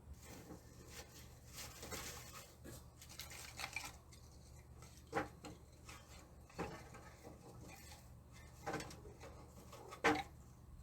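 Faint scraping and rustling, then four separate knocks or clinks spaced a second or two apart, the last the loudest.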